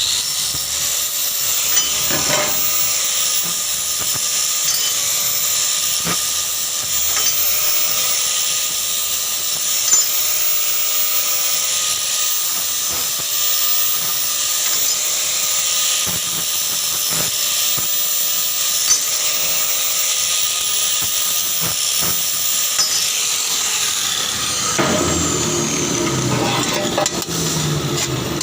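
Electric arc welding: a steady, crackling hiss of the arc burning a rod, struck abruptly and held for about 25 seconds before it stops.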